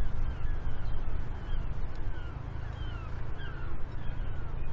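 Birds calling in many short, repeated falling notes over a steady low rumble, with scattered light clicks.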